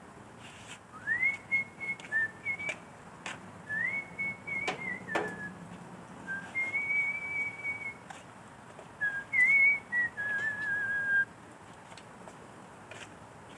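A man whistling a slow tune in long held notes with short slides between them, in four phrases, with a few sharp clicks in between.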